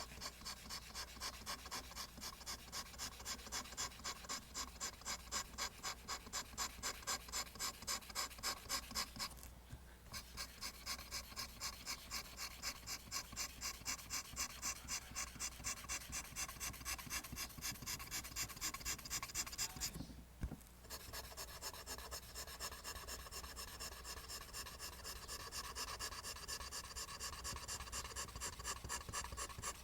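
Pencil drawing lines on paper in quick, even, repeated strokes, about three a second, with short pauses about ten and twenty seconds in.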